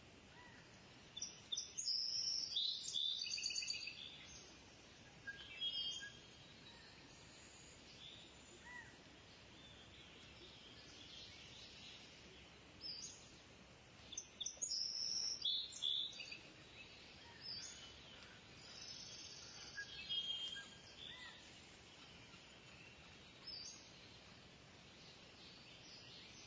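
Kingfisher calling: bouts of shrill, high-pitched, rapidly repeated notes, the main ones a few seconds in and again around the middle, with fainter single chirps in the gaps over a steady hiss.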